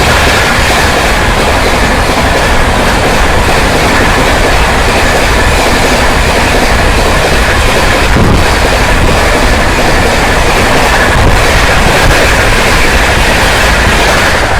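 Express passenger train passing at speed: a loud, steady rush of wheels on rails with the clickety-clack of the coaches going over the rail joints.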